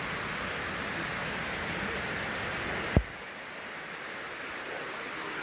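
Steady high-pitched droning of rainforest insects, two unbroken tones held throughout. About three seconds in a single sharp click or knock, after which the lower background goes quieter.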